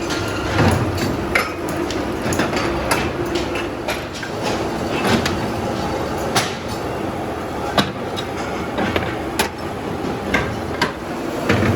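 Factory machinery running with a steady hum, with many irregular sharp knocks and clanks over it.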